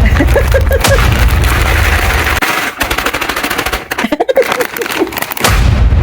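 Bag of frozen broccoli and cauliflower florets being beaten hard and fast, giving loud rapid thumps that come in quick runs, loosening the frozen-together pieces.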